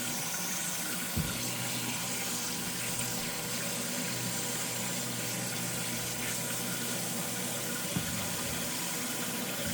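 Small live-well aerator pump running with a steady hum while water pours and splashes continuously. Two light knocks, about a second in and near the end.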